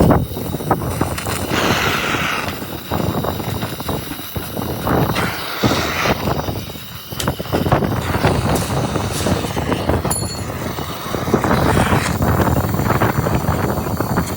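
Loud, continuous metalworking clatter in a sheet-metal workshop, with many rapid knocks and rattles.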